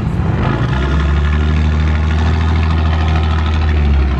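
Pickup truck engine running with a steady low drone that settles in about half a second in.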